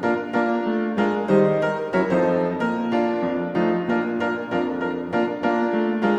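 Background piano music: a gentle melody of repeated notes over chords.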